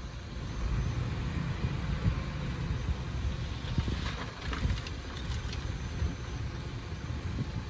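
Diesel engine of heavy earthmoving machinery running with a steady low rumble, with a few faint crackles about four to five seconds in.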